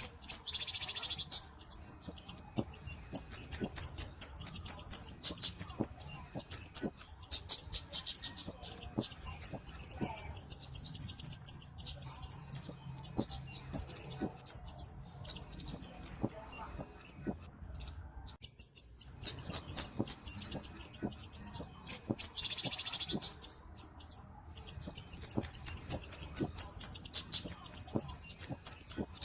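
A flowerpecker (cabe-cabean) singing: runs of rapid, very high, thin ticking notes lasting several seconds, broken by short pauses and repeated.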